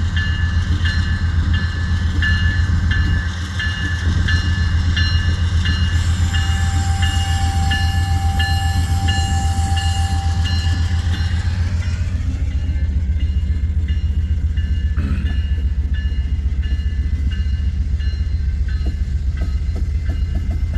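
Empty coal train rolling past with a steady low rumble. A bell rings about twice a second over it and stops about twelve seconds in.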